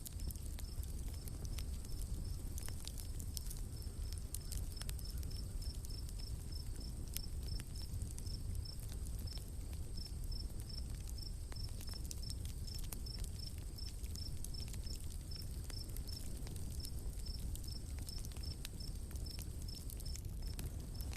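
Campfire crackling with scattered sharp pops over a low rumble. A high chirp repeats evenly about three times a second, with a thin, steady high hum of forest ambience behind it.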